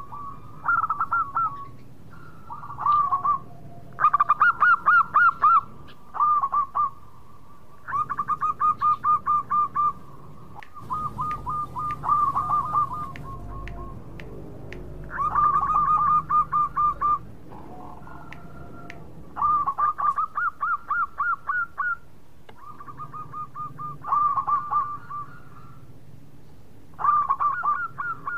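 Zebra dove (perkutut) singing its cooing song: repeated phrases of quick, bubbling coo notes, each phrase one to two seconds long with short pauses between.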